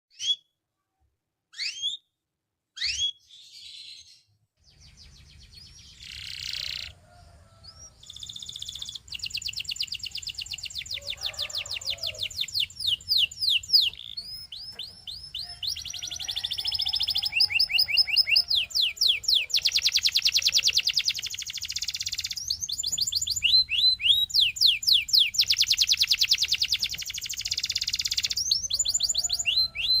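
Belgian singing canary singing. Three short rising whistles open the song, then from about eight seconds in it runs into a long stream of fast trills and rolls made of rapidly repeated rising notes, growing louder toward the end. A faint low hum runs underneath.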